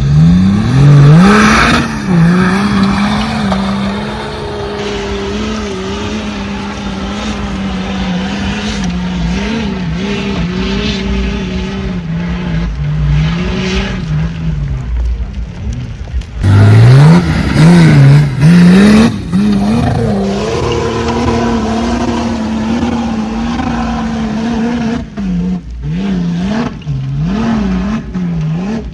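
Off-road vehicle engine revving hard under load. It climbs in pitch at the start and is held high for long stretches, with a fresh rev-up a little past halfway and short, quick throttle blips near the end.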